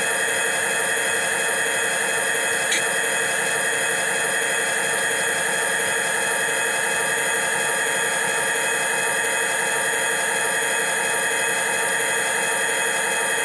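Train sound of a diesel freight running, a steady hissing rumble with fixed tones at an unchanging level, with one faint click about three seconds in.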